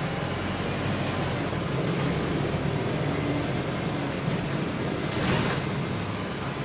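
Wright StreetLite single-deck bus on the move, heard on board: steady engine and road noise, with a brief hiss about five seconds in.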